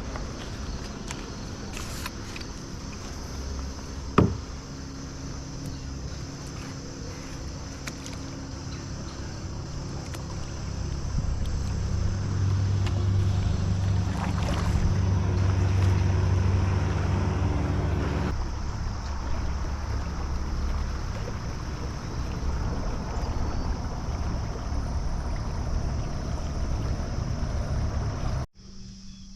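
Small boat's motor humming steadily, louder for a stretch in the middle, with one sharp knock about four seconds in.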